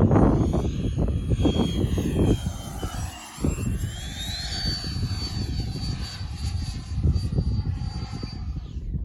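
Whine of the Freewing F-22 Raptor RC jet's electric ducted fans in flight. The pitch dips, climbs to a higher steady note about four seconds in, and stops near the end. Wind buffets the microphone throughout.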